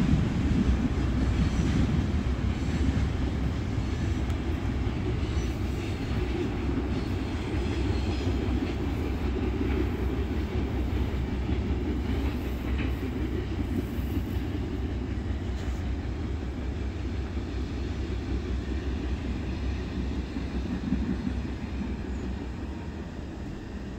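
Freight train rolling away down the track, a steady low rumble of wheels on rail that slowly fades as it recedes.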